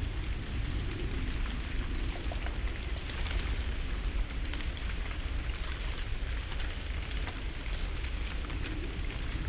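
Dry autumn leaves falling through the trees and landing on the leaf litter, a patter of many light ticks much like light rain. A few short, high bird calls come about three and four seconds in.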